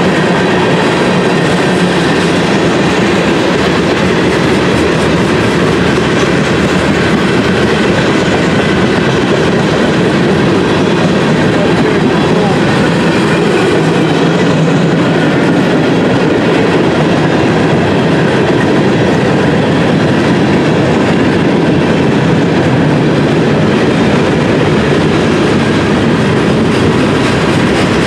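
Freight train of tank cars and boxcars rolling past: the steady, loud rumble and clatter of steel wheels on the rails.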